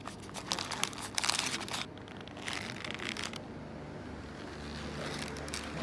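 Wrapper crinkling and rustling in two bursts as it is handled, with a low steady hum coming in for the last two seconds.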